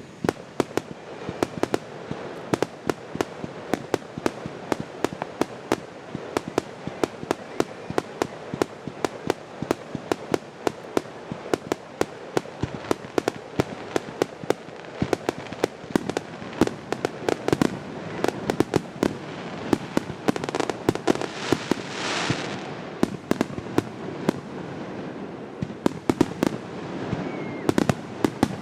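Fireworks display: a rapid, continuous string of sharp bangs and cracks from firework shells, several a second, with a brief hissing rush about three-quarters of the way through.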